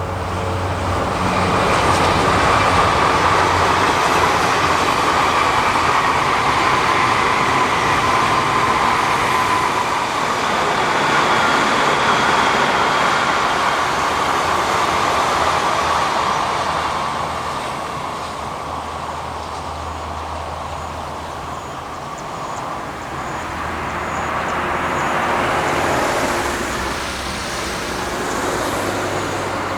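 Odakyu Odawara Line electric train running past at speed: wheel and rail noise with a steady motor whine, loudest over the first half. The noise dies down and then swells again later on.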